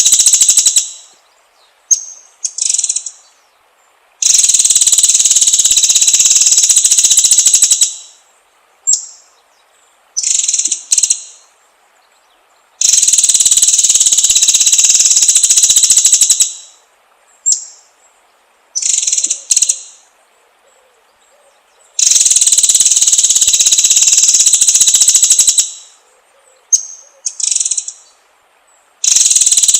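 White-rumped shama (murai batu) song: long, rapid trills of about four seconds each, alternating with short high call notes, in a pattern that repeats about every nine seconds.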